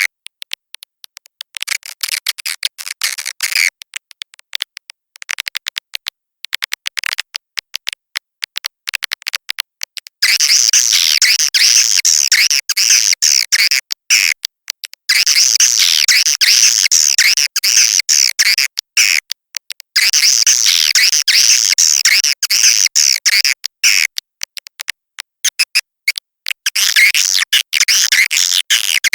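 Edible-nest swiftlet calls played back as a lure for a swiftlet house: dense, rapid, high twittering and chirping. It comes in choppy short bursts at first, then in longer continuous stretches broken by brief gaps.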